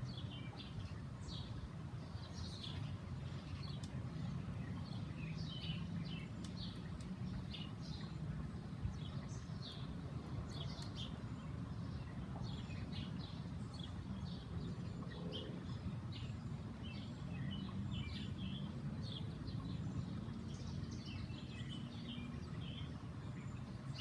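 Songbirds chirping, many short calls in quick succession throughout, over a steady low background rumble.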